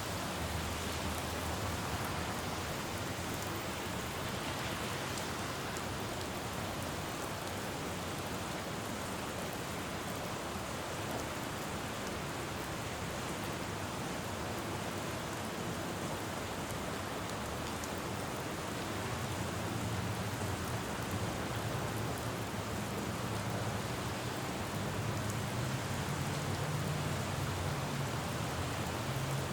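Steady rain falling on a city road. A low traffic rumble grows louder in the last third.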